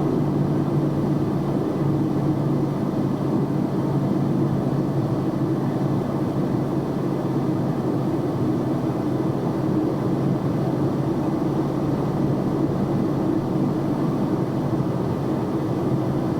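Steady engine drone and road noise inside the cab of a box truck as it drives along, with an even hum that holds at a constant level.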